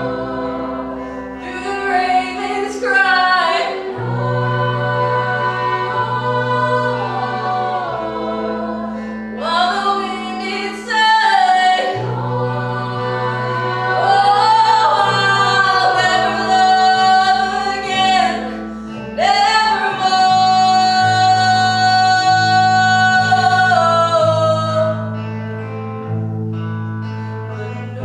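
Music: voices singing long, held, sliding lines without clear words over sustained low chords that change every few seconds.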